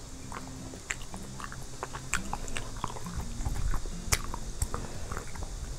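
Close-miked chewing of braised chicken and potatoes, with scattered sharp clicks throughout and a louder stretch a little past the middle.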